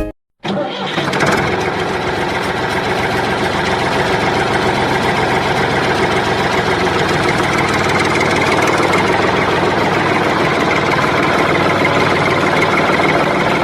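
A small motor in a homemade working-model machine runs steadily with a dense mechanical hum. It starts after a brief silence and grows a little louder over the first few seconds.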